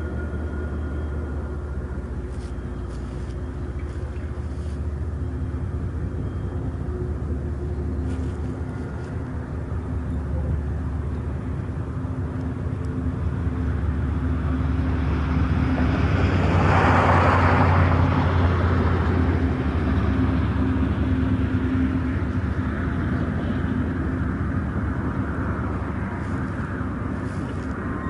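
Two Norfolk Southern GE ES44DC diesel locomotives hauling a Triple Crown RoadRailer train past: a steady low engine drone with the rumble of the train rolling on the rails. It grows louder to a peak about two-thirds of the way through, then eases off.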